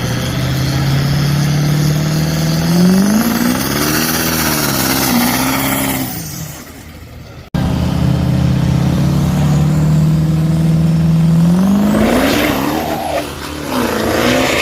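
Diesel truck engine held at a steady pitch, then rising and wavering in pitch as it accelerates, fading after about six seconds. After an abrupt cut, another engine holds steady and rises again near the end.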